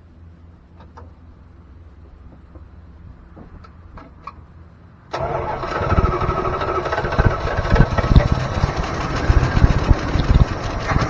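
1987 Dodge D100 pickup engine firing up on its first start after sitting, primed with gas poured down the carburetor. It is quiet with a few faint ticks, then about five seconds in the engine catches suddenly and keeps running, loud and uneven.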